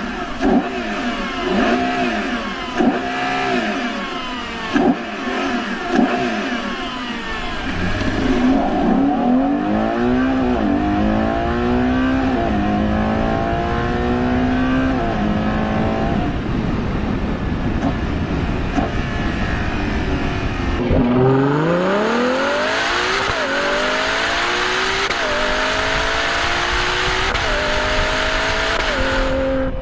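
Ferrari Purosangue's naturally aspirated V12 revving in short blips, then accelerating hard through several upshifts. The pitch climbs and drops back at each gear change. It eases off for a few seconds and then pulls hard through the gears again, with heavy rushing noise.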